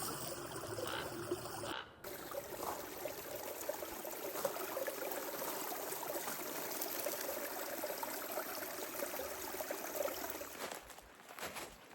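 Small spring-fed creek trickling steadily. It falls away near the end.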